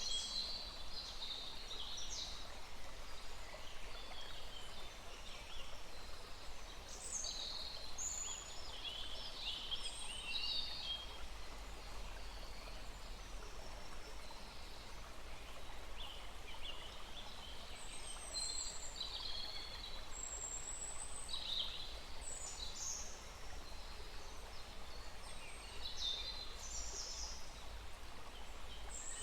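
Several birds chirping and calling in short bursts of high notes, over the steady rush of a small stream.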